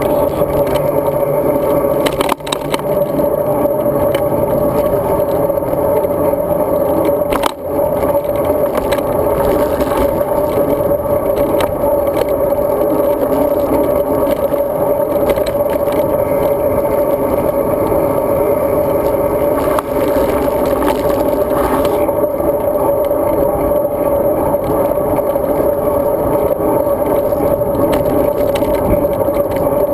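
Road bike riding along, heard through a bike-mounted action camera: steady loud rolling and wind noise with rattling and a constant hum. The noise briefly dips twice.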